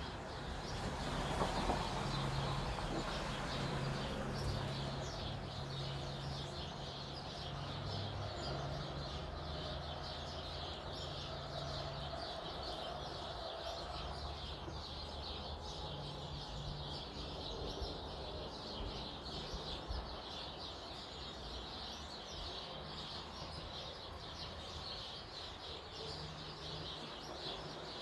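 Many small songbirds chirping and calling at once, a dense continuous chatter of short high chirps, with a low steady hum underneath.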